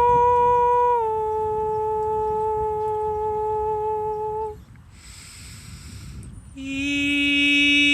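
A voice toning long held notes without words. The first note steps down slightly about a second in and stops about halfway. After a short breath a lower, richer note begins near the end.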